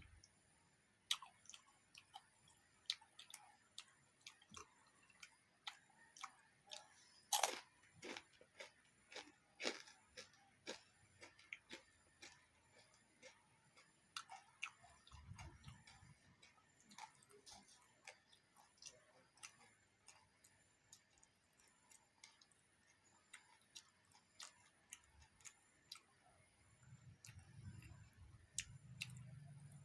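Close-miked eating: irregular crunches, clicks and smacks of food being bitten and chewed, with a few soft low thuds.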